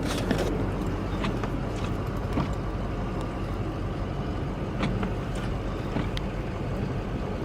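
Snowplow vehicle engine running steadily while it pushes snow, with a few light clicks or knocks over the top.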